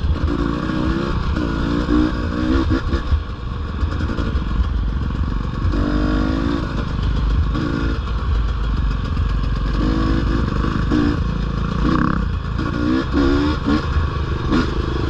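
Dirt bike engine running under load on a trail, its pitch climbing and dropping again and again as the throttle is worked, over a steady low rumble of wind and ride noise.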